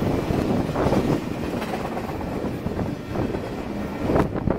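Double-stack intermodal well cars rolling past close by: a steady rumble of steel wheels on rail with irregular clanks, and a louder clatter about four seconds in.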